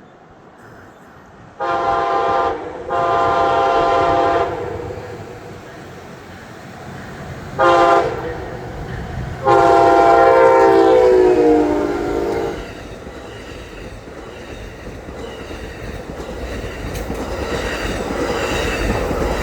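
Amtrak Auto Train locomotive horn sounding the grade-crossing signal: two long blasts, a short one, then a long one that falls in pitch near its end as the locomotive passes. After that the rumble of the train's wheels on the rails builds steadily.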